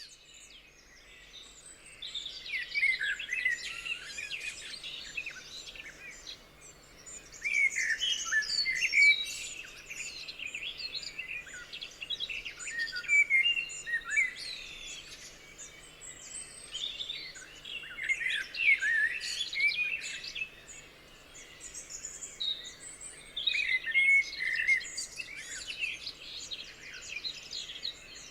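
A chorus of several songbirds singing and chirping over one another, with overlapping trills and high chirps coming in waves.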